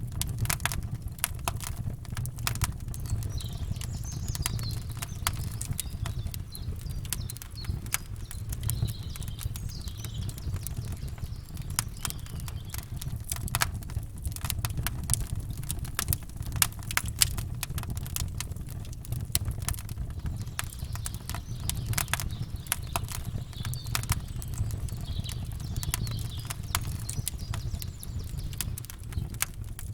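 Campfire crackling, with many quick sharp pops and snaps over a steady low rumble, and faint bird chirps now and then.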